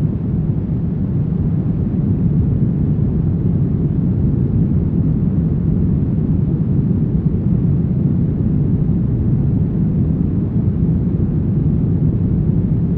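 Brown noise: a steady, deep rushing hiss, strongest in the bass and fading off toward the highs, unchanging throughout.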